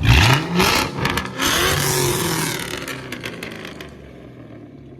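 Car engine revved sharply once, its pitch climbing fast, then a loud hiss with crackles and pops as the revs fall back to idle.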